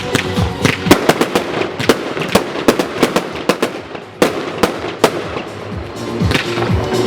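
Consumer firework going off in a rapid, irregular string of sharp bangs and crackles, with a sharp bang at about four seconds in. Music plays underneath.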